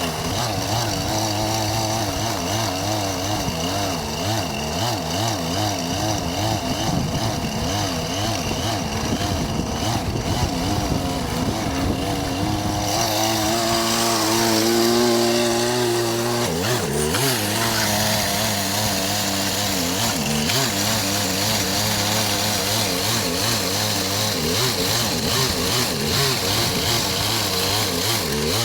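Gas chainsaw running, its engine pitch wavering up and down, then held steadier and higher for a few seconds about halfway through. The saw is one that the owner says isn't working right and won't cut as it should.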